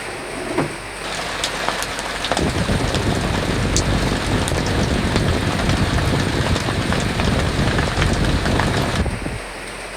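Steady rain hiss with a single thud just after the start. About a second in, heavier rain comes in with sharp drop ticks, and from about two and a half seconds in a strong low rumble of wind gusting joins it. Both die away near the end, leaving the steady hiss.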